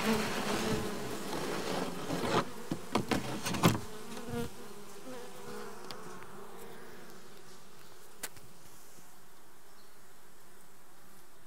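Honeybee colony buzzing inside a Japanese-style box hive, with several sharp knocks and clicks in the first few seconds, then settling to a steadier, quieter hum.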